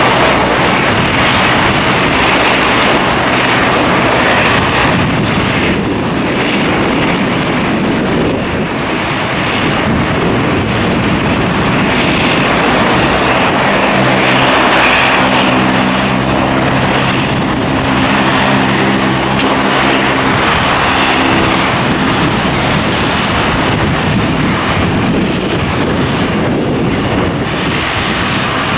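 Steady, loud rush of airliner engine noise mixed with wind on the microphone. For several seconds in the middle, a steady low hum of several tones joins it.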